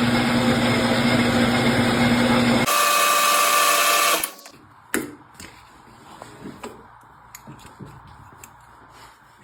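Metal lathe running under power: a loud steady motor hum that shifts to a higher, thinner tone about two and a half seconds in and cuts off at about four seconds. Faint knocks and clicks of handling follow.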